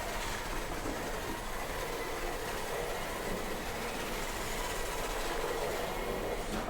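Remote-control cars running: a steady whir of small electric motors and wheels on the ground, with a faint high whine.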